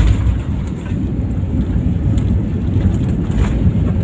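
Loud, steady low rumble inside an airliner cabin during landing, with a few faint knocks.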